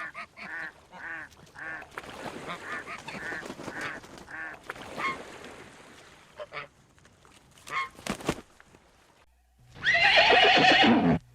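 Geese honking, many short calls in quick succession, thinning out after about five seconds. Near the end a horse gives one loud whinny, falling in pitch as it ends.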